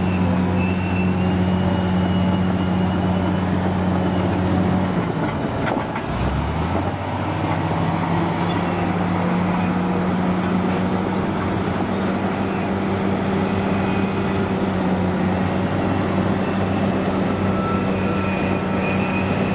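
A heavy vehicle's engine running steadily. About five seconds in, its revs dip briefly, then it settles back to a steady run.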